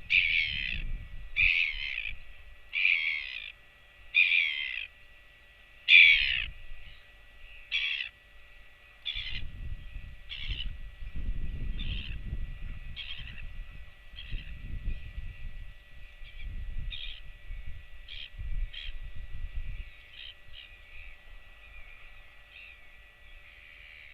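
A bird giving a series of harsh, caw-like calls, about one every second and a half, loudest about six seconds in and then fading to short, faint calls. Low gusts of wind rumble on the microphone through the middle.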